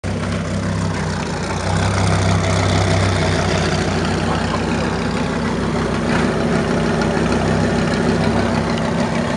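Lamborghini Gallardo's V10 engine idling steadily at its exhaust, a deep even note with no revs.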